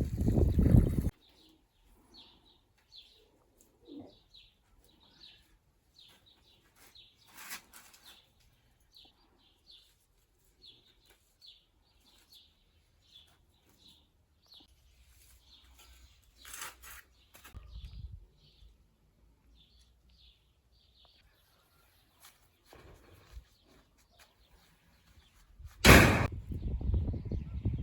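A small bird chirping short high notes over and over, about two a second, with little else heard. A loud noisy sound cuts off about a second in, and a sudden loud knock near the end is followed by loud rustling noise.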